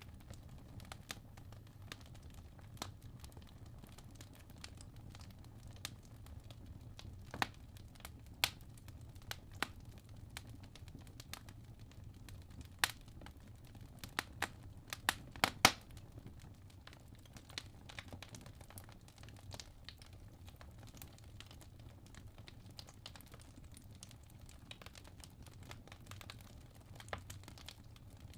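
Wood logs burning in a fireplace: irregular sharp crackles and pops over a low, steady rumble of the fire, with a quick cluster of louder pops about halfway through.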